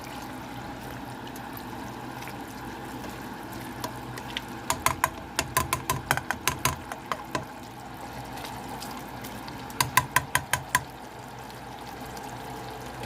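A pot of collard greens in their liquid simmering with a steady watery bubbling. Two runs of quick sharp clicks break in, one of about ten clicks near the middle and a shorter one of about six a few seconds later.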